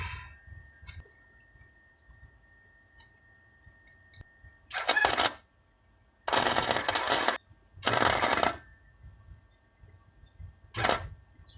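Electric welding arc crackling in four short bursts, each under about a second, the last one very brief: tack-welding steel exhaust pieces and filling a hole in the joint.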